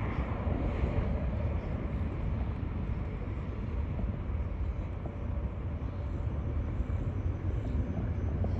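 Steady low rumble with a fainter hiss above it: outdoor background noise, with no single distinct event.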